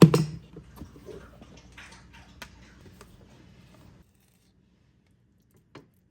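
A loud thump, then light clicks and knocks of kitchen items being handled while breakfast is made. The sound cuts to silence about four seconds in, with a few clicks near the end.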